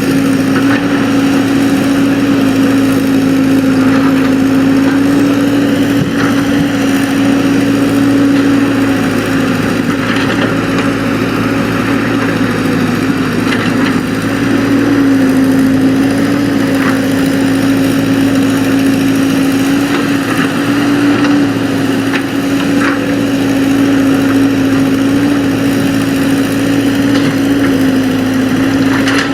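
Excavator's diesel engine running steadily, with a single strong tone that wavers slightly in pitch now and then.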